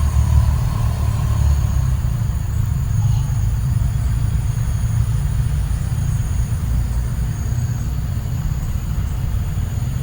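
Low, uneven rumble of wind buffeting the microphone, with a faint steady high drone of insects above it.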